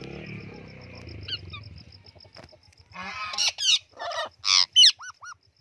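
A parrot calling: a quick run of short squawks and chirps in the second half, some sliding down in pitch, after a faint low hum that fades out.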